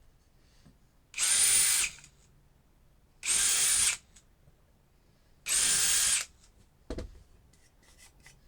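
Power drill running in three short bursts of under a second each, boring screw holes in wood, followed by a single sharp knock about seven seconds in.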